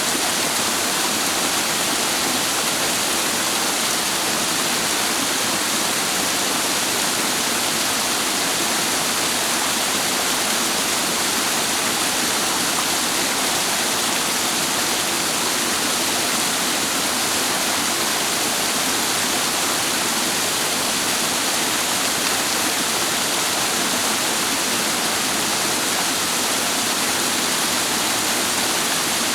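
Clear mountain stream water rushing and cascading, a loud, even rush that does not change.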